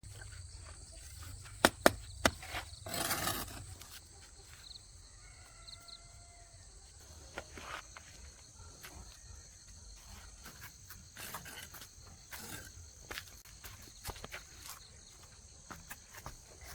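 Insects droning steadily at a high pitch in rural surroundings, with three sharp clicks about two seconds in, a short rustle just after, and scattered faint rustles later.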